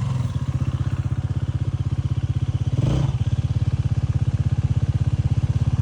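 Motorcycle engine idling with a steady, even low beat. There is a short noise about three seconds in.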